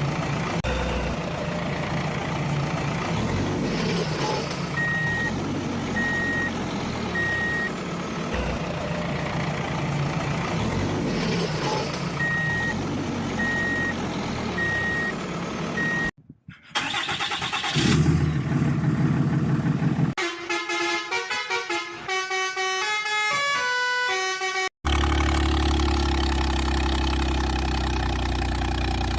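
Heavy vehicle engine sound running steadily, with a repeated high beep in two runs. It cuts off abruptly to a few loud horn-like blasts, then a short tune of stepping tones, then another steady engine sound.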